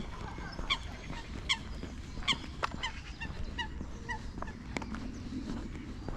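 Repeated short animal calls, each dipping slightly in pitch, a little under a second apart at first and coming quicker in the middle.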